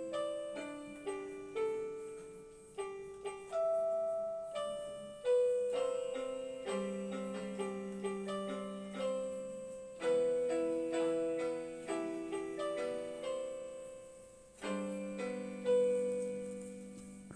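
Angelet XTS 690 portable keyboard playing its "clean piano" voice (tone 131): a slow melody over chords, each struck note fading away.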